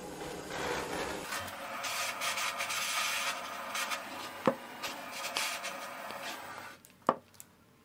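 Handheld gas torch burning with a steady hiss, heating a small copper plate held on a pick. The flame stops shortly before the end, with a couple of sharp clicks.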